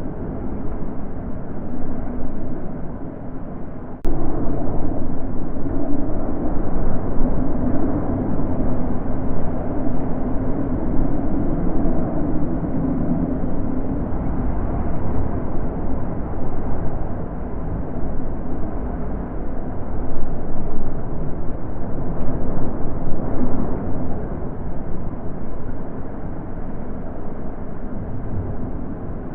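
Wind blowing in gusts, a low rushing that swells and eases every few seconds, with a sudden jump in loudness about four seconds in.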